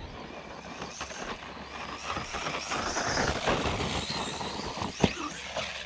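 Arrma Outcast 4S RC stunt truck driving over dirt, its motor and tyres getting louder as it runs out, then easing off. A sharp knock about five seconds in as the truck hits the ground.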